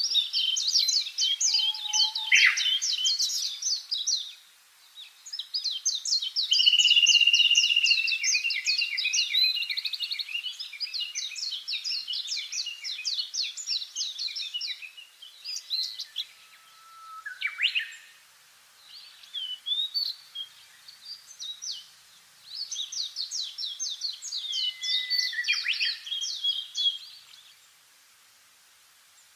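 Songbirds singing: long, fast trilled phrases of rapidly repeated high notes, a few sharp downward-sliding calls, and short pauses between bouts.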